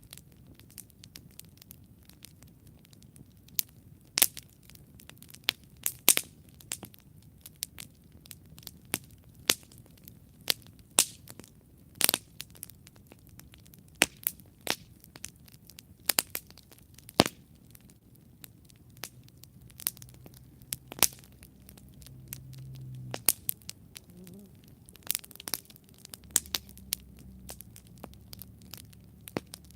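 Wood campfire crackling, with sharp pops coming irregularly, several a second at times and a few much louder than the rest. A faint low hum swells briefly about two-thirds of the way in.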